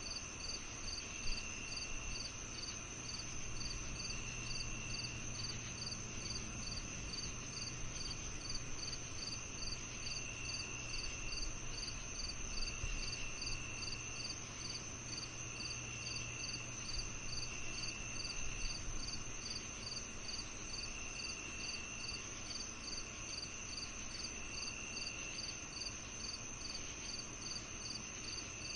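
Crickets and other insects calling in an evening chorus: one steady high trill, a regular chirp at about two a second, and a lower trill that starts and stops every second or two, over a faint low hum.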